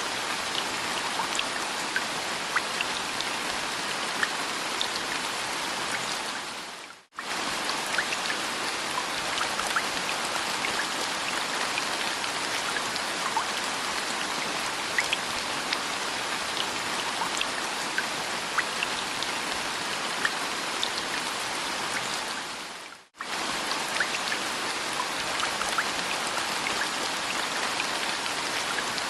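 Steady rain: an even hiss with many individual drops ticking through it. The sound dips out briefly twice, about sixteen seconds apart, and comes straight back.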